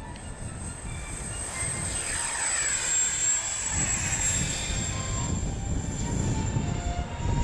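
Kawasaki T-4 jet trainers passing overhead. The turbofan whine sweeps down in pitch as they go by, over a steady low jet rumble.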